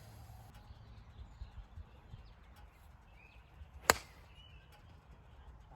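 A golf club striking a golf ball: one sharp crack about four seconds in.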